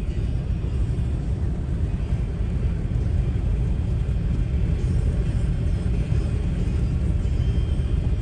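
Steady low rumble of a vehicle on the move, engine and road noise with no breaks or changes.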